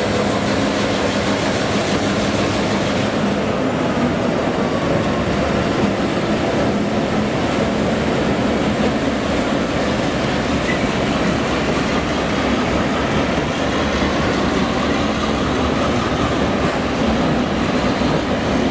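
A train running steadily on the rails, with continuous rolling noise from wheels and track.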